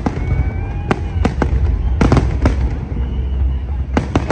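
Fireworks display: sharp bangs of bursting shells, several in quick succession with a close run of three near the end, over a continuous low rumble.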